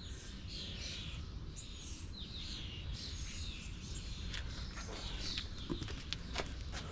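Small birds chirping, a string of short repeated chirps over a steady low hum, with a few light clicks in the second half.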